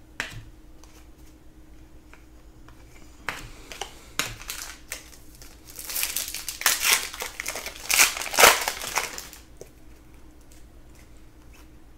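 Plastic trading-card pack wrapper being torn open and crinkled. A few light clicks and rustles come first, then a burst of crinkling about six seconds in that lasts three to four seconds.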